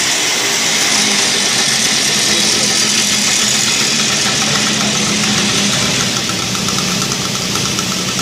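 A 1966 SHL motorcycle's single-cylinder two-stroke engine idling steadily, running again after some twenty years laid up.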